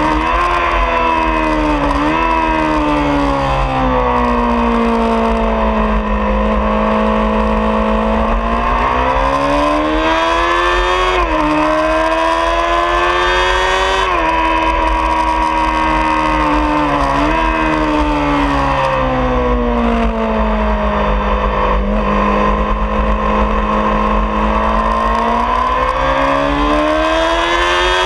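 2003 Honda CBR600RR's 600cc inline-four engine heard onboard at speed, its pitch falling as the rider slows for corners and rising again under acceleration, with short dips at the gear changes. Steady wind buffeting on the microphone underneath.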